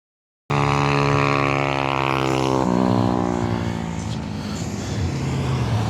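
Car engine running close by, with a steady note that shifts once about two and a half seconds in and then gives way to a rougher, even noise.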